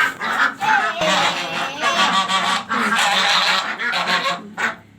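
Domestic waterfowl calling loudly, several harsh calls in close succession, fading near the end.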